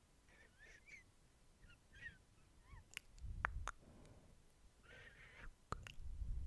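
Close-miked ASMR mouth sounds: faint wet tongue clicks and short squeaky lip and mouth noises, with a few low muffled rustles in between.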